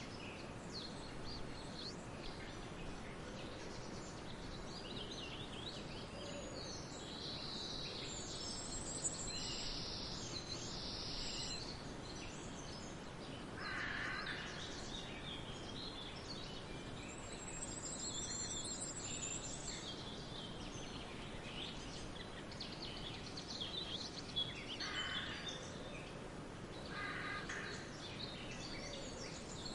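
Forest birdsong: many birds chirping and trilling high over a steady background hiss, with a few harsher, lower calls, typical of crows cawing, about a third of the way in and again near the end.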